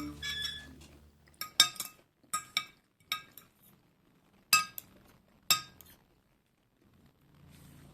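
Metal cutlery clinking against a dish: several separate clinks, some in quick pairs.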